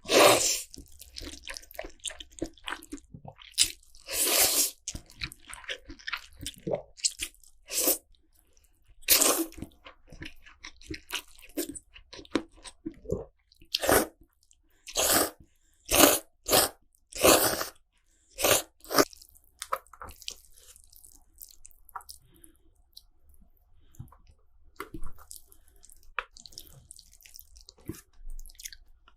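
Close-miked eating of spicy instant noodles: irregular slurps and chewing, some longer bursts and some short ones, with short quiet gaps between.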